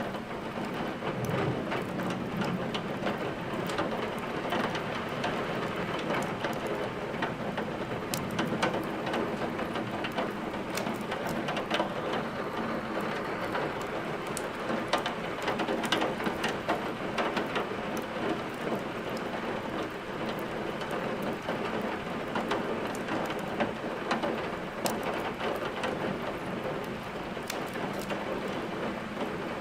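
Steady rain falling, mixed with frequent short crackles and pops of burning firewood in a fireplace.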